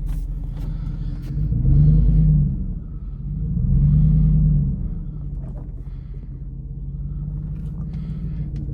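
Third-generation Dodge Ram's Hemi V8 running as the truck drives off-road, heard from inside the cab. The engine swells twice under throttle, about two and four seconds in, its pitch rising and falling each time, with a few light knocks from the truck.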